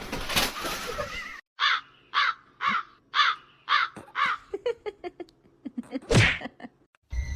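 A run of six harsh animal calls, about two a second, followed by a few short clicks and one louder call about six seconds in.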